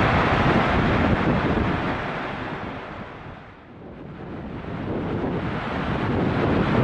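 Steady rushing noise of heavy rain and wind on the microphone. It fades down to a low point a little past halfway, then swells back up.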